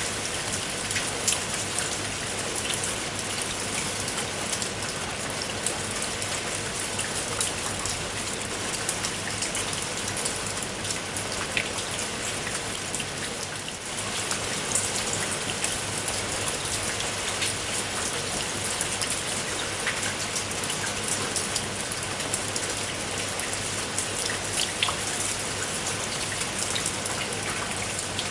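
Steady rain falling, an even hiss with many separate drops ticking sharply on a surface, briefly a little softer about halfway through.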